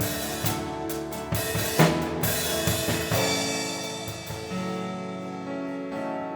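Live worship band playing the instrumental close of a song. Drum kit hits sound over held chords for about the first three seconds; then the drums stop and the chords ring on, fading slowly.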